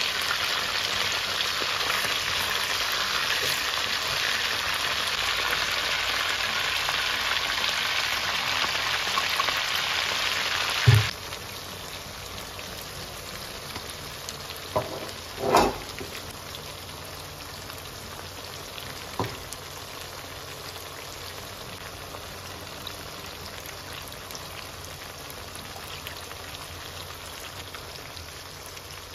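Chicken wings sizzling in hot oil in a frying pan, a steady hiss. About eleven seconds in there is a low thump and the sizzle drops abruptly to a quieter level, with a few short knocks a few seconds later.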